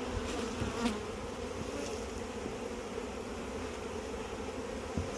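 Steady buzzing of a honey bee swarm, many bees in flight, with a couple of faint clicks.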